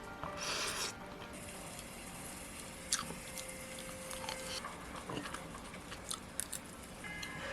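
Someone eating: soft biting and chewing, with a short rustle near the start and a few sharp clicks, likely cutlery on a dish.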